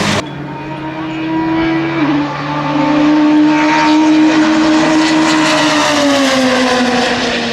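Racing car engine running at high revs, its note holding steady, dipping briefly about two seconds in and falling slowly toward the end, loudest in the middle.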